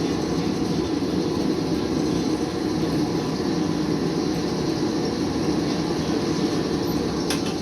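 Steady rumbling shop machinery running without a break, with one short sharp click near the end.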